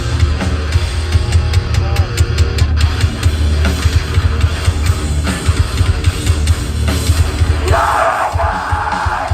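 Hardcore band playing live through a loud PA: distorted guitar, heavy bass and pounding drums. A harsh, noisy midrange sound rises over the band near the end.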